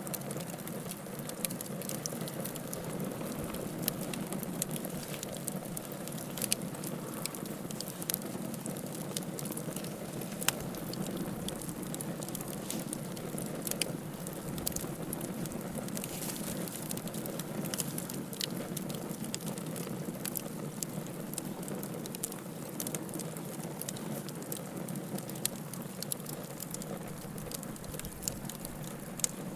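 Wood fire burning: a steady low rush of flames with frequent irregular crackles and pops of burning wood, a few of them sharper and louder.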